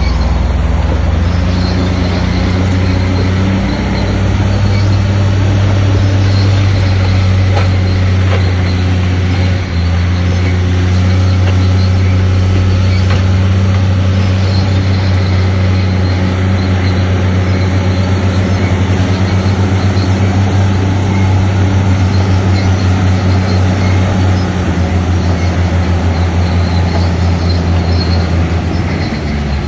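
Heavy diesel engine of earthmoving machinery running loudly and steadily with a deep drone. In the second half the sound takes on a rapid pulsing throb.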